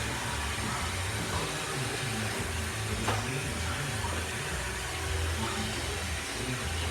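Roomba robot vacuum running, a steady motor-and-brush noise, with one brief click about three seconds in.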